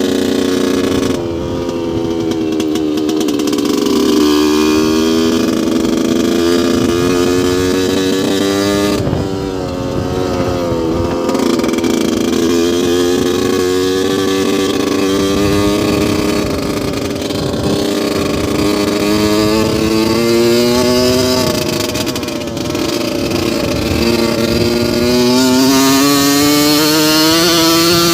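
2002 Yamaha YZ125's single-cylinder two-stroke engine running, its pitch climbing and falling back again and again as it is revved up and backed off.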